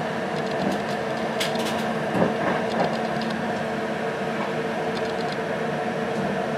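Passenger train running at speed, heard from inside the rear coach: a steady rumble with a constant hum, and a few sharp clicks from the wheels on the track.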